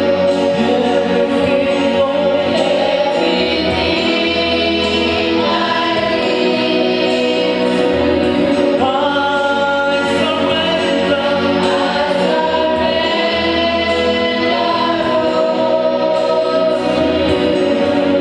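Choir singing a gospel worship song, many voices holding and changing sustained notes over steady musical accompaniment.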